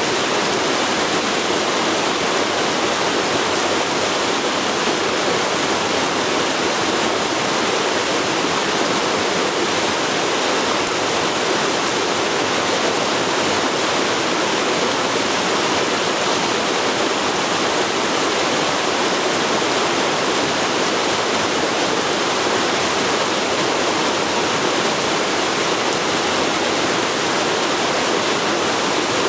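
A river flowing over rocks: a steady, unbroken rush of water.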